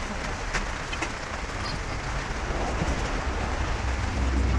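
Steady rain falling, with a few scattered drips ticking and a low rumble that swells near the end.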